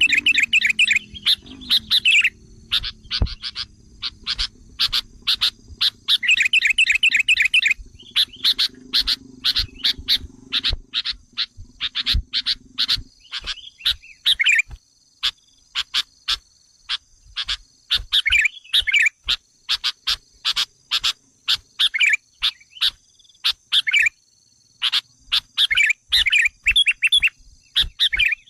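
Sooty-headed bulbul lure call: rapid, sharp, repeated chips mixed with short bursts of chattering, the agitated calling used to provoke wild bulbuls. A steady high hum runs underneath, and a low drone fades out about halfway through.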